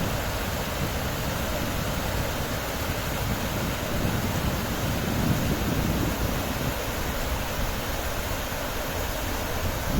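Waterfall rushing as a steady, even noise, with wind buffeting the microphone in gusts, strongest around the middle.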